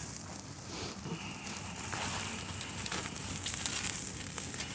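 Tenderloin sizzling on a grate over a campfire, a steady frying hiss that grows slowly louder, with a few small crackles.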